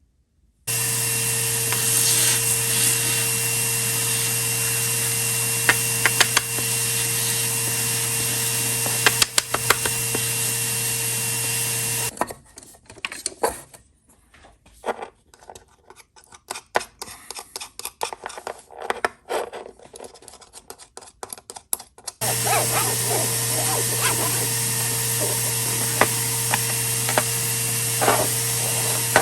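A small electric motor runs steadily with a hum and light clicks for about eleven seconds, then stops. About ten seconds of handling clicks and knocks follow, then the motor starts again and runs on.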